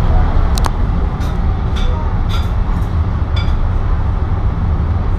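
Passenger train running at speed, heard on board: a steady low rumble of wheels on the track, with short high clinks about every half second.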